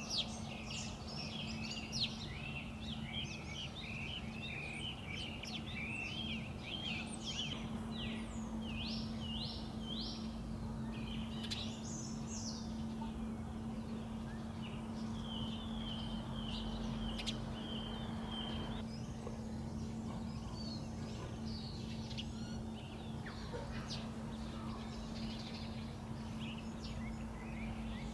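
Several songbirds chirping and singing in quick, overlapping calls and trills, over a steady low hum and faint background rumble.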